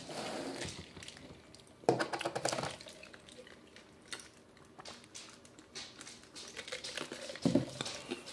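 Eating sounds close to the microphone: wet chewing and mouth clicks, with a drink from a plastic bottle partway through.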